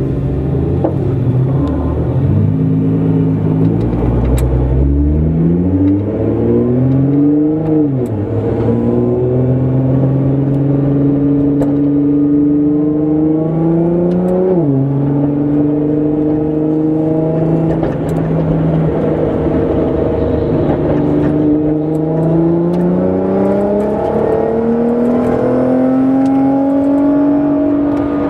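Tuned 700 hp Nissan GT-R R35's twin-turbo V6 pulling hard, its revs climbing and then dropping sharply at gear changes about 8 and 14 seconds in. Later it climbs again in steady rises.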